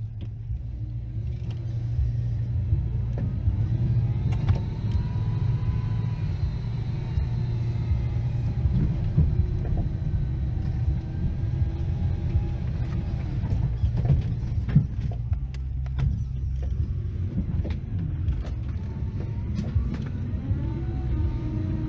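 Motor vehicle running: a steady low engine rumble with a faint whine that rises and falls in pitch, and a few knocks.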